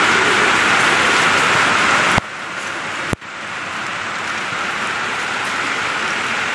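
Steady heavy rain falling on a rooftop. The rain sound drops abruptly in loudness about two seconds in, and a single sharp click follows about a second later.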